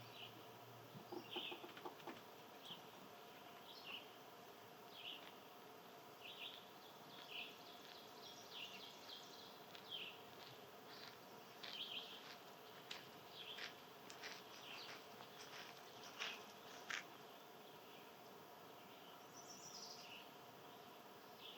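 A small bird repeating short, high chirps about once a second, with a run of sharper chip notes in the middle, over a faint steady hum.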